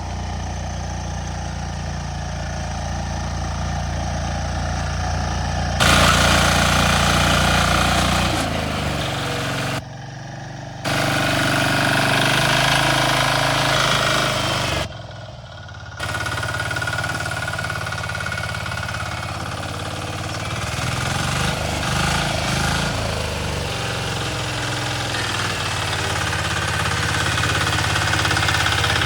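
Compact tractor engine running, with abrupt changes in its pitch and loudness several times, including two brief drops in level about ten and fifteen seconds in.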